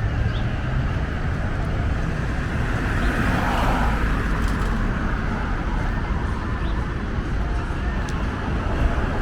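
City street traffic: a steady low rumble of cars, with one vehicle passing more loudly about three to four seconds in.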